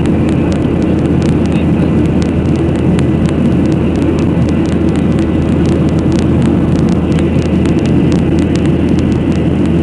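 Aircraft engine noise: a loud, steady low drone that holds unchanged, with faint rapid ticks over it.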